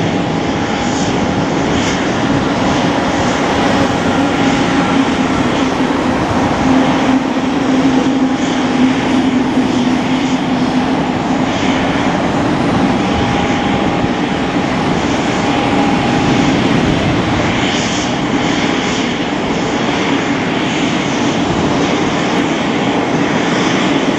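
MV-22 Osprey tiltrotor's twin turboshaft engines and proprotors running on the ground after start-up: a loud, steady deep drone with a fainter whine above it.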